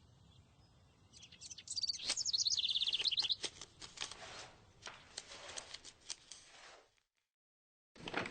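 A bird chirping in a rapid, warbling trill, followed by scattered light clicks.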